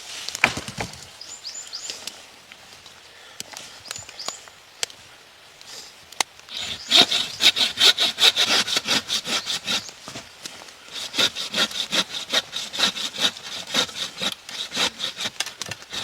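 Hand saw cutting through wood in quick, even back-and-forth strokes, about three a second, starting about six seconds in and pausing briefly near the middle before carrying on. A few scattered knocks come before the sawing starts.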